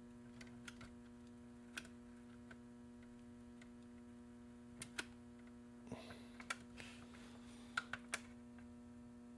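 Faint steady electrical hum from the plastic repair kit's hot stapler as it heats, with a few light clicks and taps of the tool against the plastic body.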